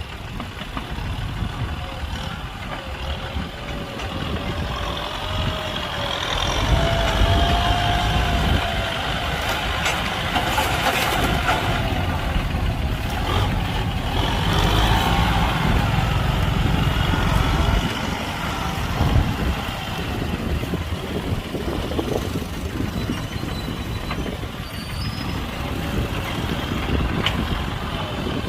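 Heavy vehicle engine running at a work site, its rumble growing louder for several seconds in the middle before easing back, with a wavering squeal on top.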